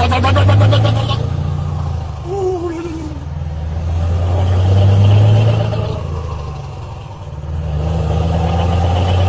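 A motor vehicle engine running with a deep rumble that swells and eases off three times, rising in pitch at the start as it revs.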